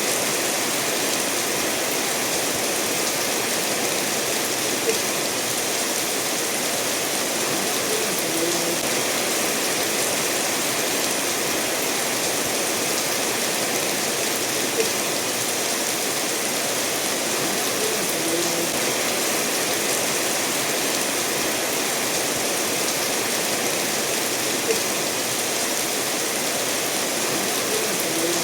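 Steady rain falling together with a stream running over stones: a continuous even hiss and rush of water. A faint drip or click sounds about every ten seconds.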